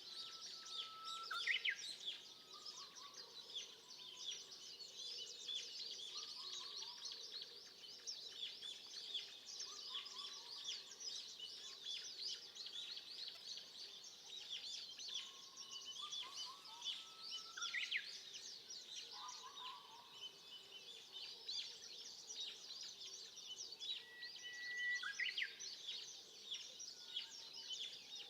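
Many wild birds singing together in a forest: a dense, continuous high twittering and chirping, with a lower call repeated every few seconds and an occasional rising whistle.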